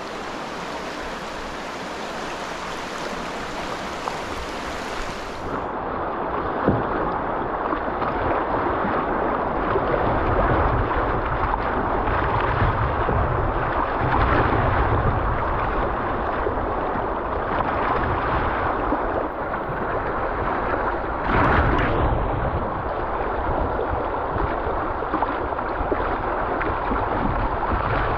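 River water rushing through shallow rapids, a steady hiss of moving water. About five seconds in the sound turns duller, and a low rumble of wind on the microphone joins it.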